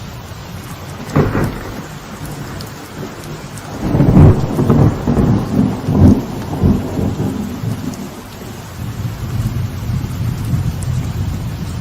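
Light rain falling steadily on a veranda, with thunder: a short crack about a second in, then a longer rolling rumble from about four seconds to seven seconds, the loudest part.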